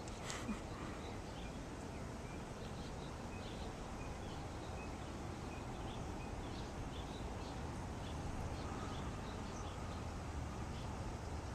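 Outdoor ambience of small birds chirping now and then, over a steady low rumble, with a brief click about half a second in.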